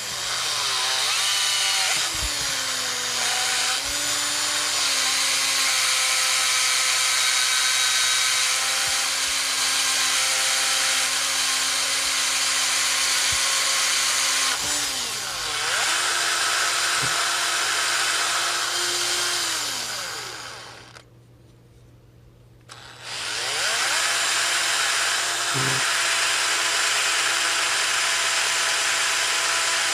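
Electric drill running, spinning an engine valve while an abrasive sponge is pressed against it to sand off carbon; the motor pitch dips and wavers under the load. It slows and stops about twenty seconds in, then starts again two seconds later.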